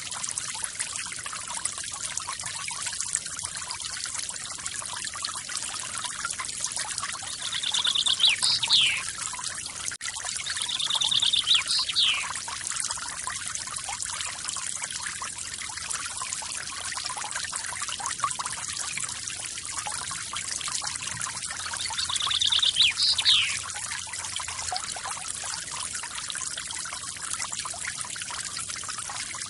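Forest waterfall splashing and trickling steadily, with a bird calling three times: each call a rapid trill ending in a quick downward slide.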